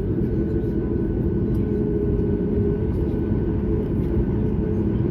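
Steady cabin drone inside a Boeing 737-9 MAX with its engines running: a deep, even rumble with a constant hum on top.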